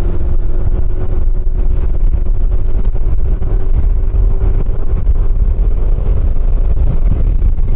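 Motorcycle engine running at a steady cruising speed, its note holding an even pitch, over a constant low rumble of wind and road noise.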